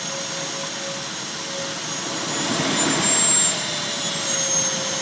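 Model jet turbine engines running: a steady high whine over a rushing roar, swelling briefly about three seconds in.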